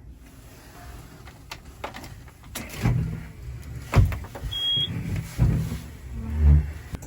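Knocks, clicks and thumps of a tractor cab door and controls being handled, with one short high beep about four and a half seconds in.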